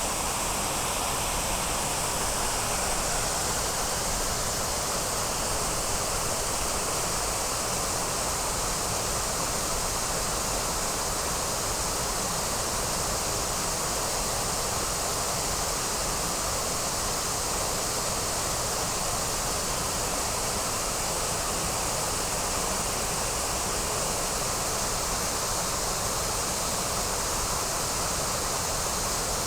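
Waterfall: a steady, unbroken rush of falling water with no separate events.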